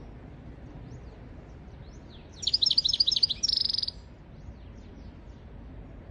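European goldfinch singing: a short burst of rapid, high twittering notes about two and a half seconds in, ending in a buzzy trill, with faint scattered chirps around it over a steady low hiss.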